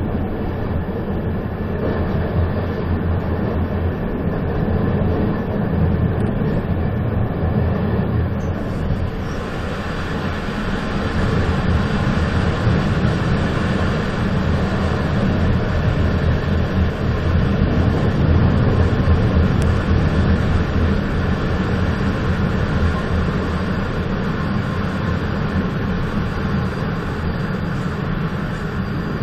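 A moving train running steadily, with a continuous low rumble. About nine seconds in, a brighter hiss joins and stays.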